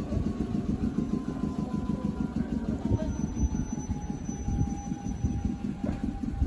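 Choshi Electric Railway train pulling away from the platform: a steady low rumble of wheels and running gear, with a faint tone that slowly falls in pitch.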